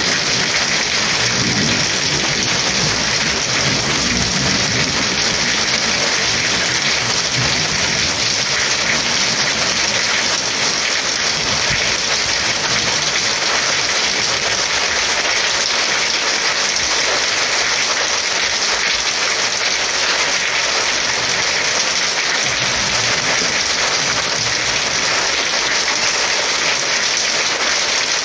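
Heavy rain falling steadily, a dense, even hiss of downpour without thunder.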